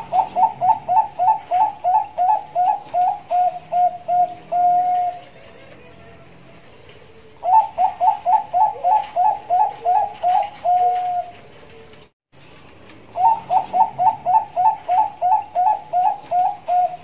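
Zebra dove (perkutut, Bangkok type) singing three song phrases. Each phrase is a quick run of about a dozen short rising coo notes, then a few lower level notes, ending on one longer note.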